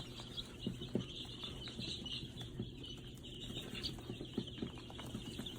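A brood of baby poultry peeping: many faint, high, overlapping chirps, with scattered small scratching ticks.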